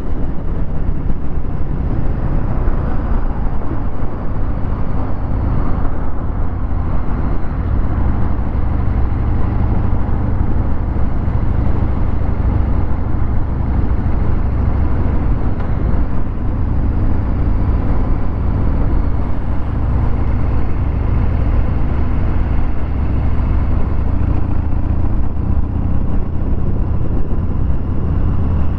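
Harley-Davidson Fat Bob 114's Milwaukee-Eight 114 V-twin running through a Vance & Hines Hi-Output 2-into-1 exhaust, recorded from the bike while riding. The engine note stays fairly steady, with only small rises and falls.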